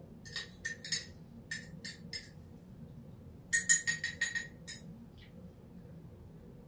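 A metal spoon clinking against a coffee mug while stirring: two runs of quick clinks, each with the same short ringing note, with a pause between the runs.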